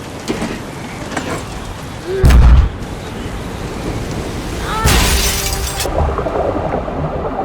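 Film storm sound effects: a heavy low boom about two seconds in, then a loud crashing burst about five seconds in, over a steady bed of rain and storm noise.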